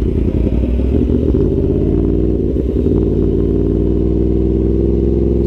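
Yamaha R1 sport bike's inline-four engine running under way, a steady drone that slowly rises in pitch over the second half.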